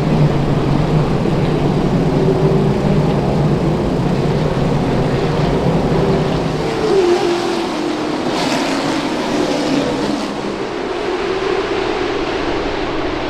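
Late model race cars running laps on the track: a loud, steady engine drone, with one car's note bending in pitch about seven seconds in as it passes.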